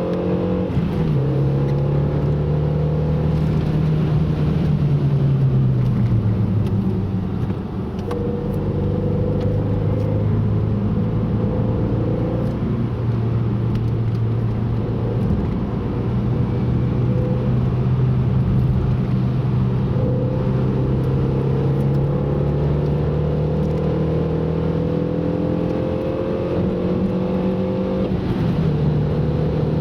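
Car engine heard from inside the car while being driven on track: the revs fall off about six to eight seconds in, then hold fairly steady and climb slowly, with a sudden change in pitch near the end like a gear change.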